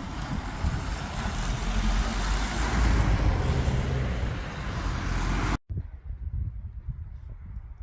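A heavy truck's engine and tyres running loud as it drives by, loudest about three seconds in. The sound cuts off suddenly about five and a half seconds in, giving way to a much quieter low rumble.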